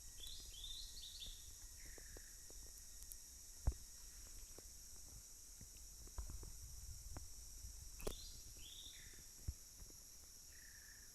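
A bird calling: a quick run of high chirps followed by a lower, slightly falling note, twice, with one more lower note near the end. A steady high insect drone runs underneath, and a sharp knock sounds about four seconds in.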